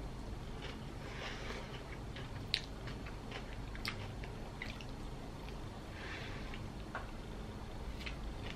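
Wet, squishy chewing of a soft filled bread roll as a person eats it quickly by hand, with a couple of sharp mouth clicks.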